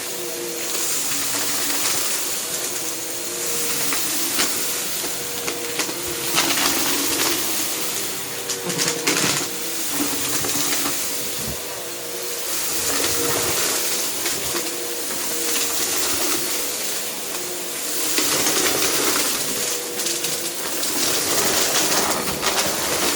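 Vacuum cleaner running steadily with a motor whine and a rushing hiss, with scattered clicks and rattles, typical of debris being sucked up.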